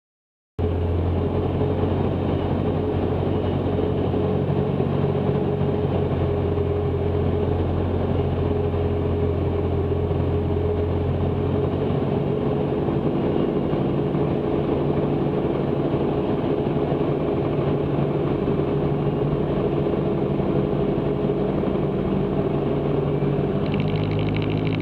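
Cessna 162 Skycatcher's four-cylinder Continental O-200 engine and propeller as heard in the cabin in flight: a steady drone whose pitch shifts slightly about halfway through.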